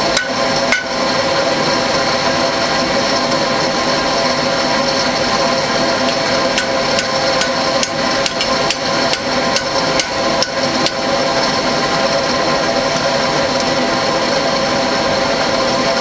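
Coal forge blower running steadily with a strong whine, and a run of about eleven sharp hammer strikes on metal, about two a second, from about six and a half seconds to eleven seconds in.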